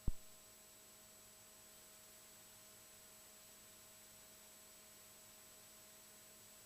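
Near silence with a faint steady hum, after a single brief click right at the start.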